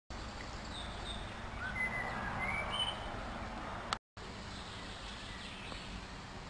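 Outdoor lakeside ambience with a steady background hiss and a few short bird chirps a second or two in. The sound cuts out briefly about four seconds in.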